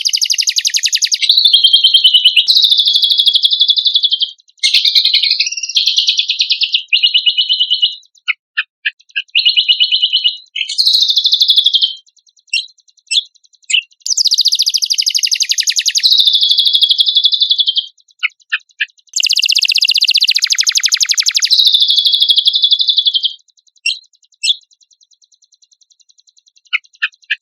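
Songbird singing long, fast, high-pitched trills in phrases of one to four seconds, broken by short gaps and a few single chirps.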